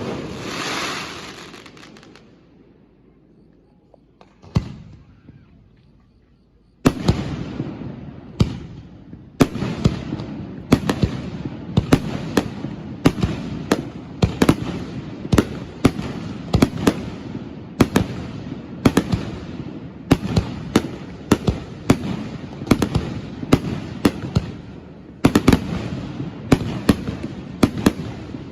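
Aerial firework shells bursting close by. A burst at the start crackles away over about two seconds, a single bang comes near five seconds, then from about seven seconds a rapid barrage of booms, one or two a second, goes on over continuous crackling.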